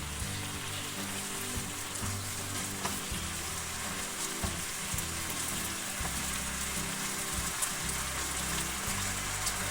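Food sizzling and crackling in hot oil in a pot, with background music playing.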